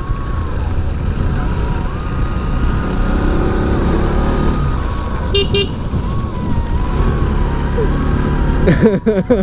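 Bajaj Pulsar NS200's single-cylinder engine running under way, heard with heavy wind rumble on the rider's microphone, the engine note rising for a couple of seconds around the middle. A short horn beep sounds about five seconds in.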